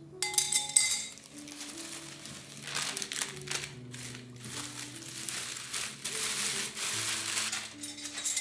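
Crinkling and rustling, in sharp bursts at first and then a long continuous stretch, over soft background music.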